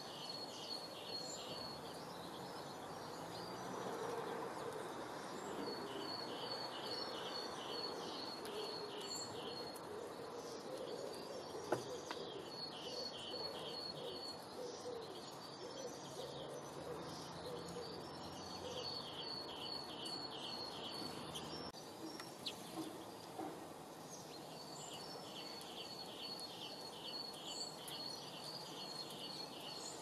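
A songbird singing a repeated rapid trill of high, evenly spaced notes, each phrase lasting about two to three seconds and coming back every five to six seconds, over a steady outdoor background hiss. There is a single sharp click a little before the middle.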